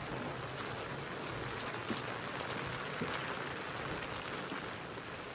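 Heavy rain falling steadily, an even hiss of drops pattering on surfaces, with a couple of small knocks of drops in its midst.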